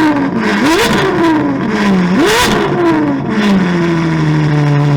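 Ferrari 812 GTS's 6.5-litre naturally aspirated V12, breathing through a Novitec sports exhaust, revved twice. Each blip rises sharply and falls away slowly. After about three and a half seconds it settles back to a steady idle.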